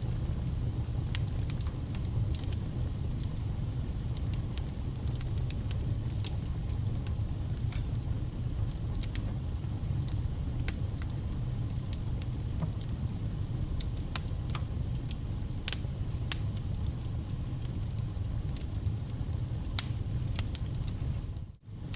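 Wood fire burning, with irregular sharp crackles and pops from the burning logs over a steady low rumble of the flames. The sound cuts out for a split second just before the end.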